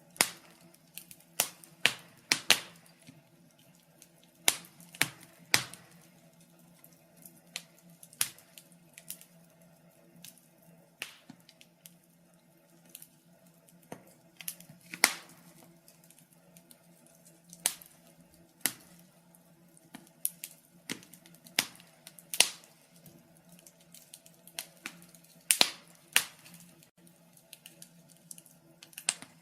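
Fire crackling: irregular sharp pops and snaps, a few every couple of seconds and some much louder than others, over a faint steady low hum.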